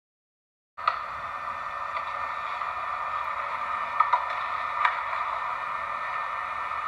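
Dead silence, then about a second in a steady, thin hiss of recording static cuts in abruptly, sounding like a radio or phone line, with a few faint clicks.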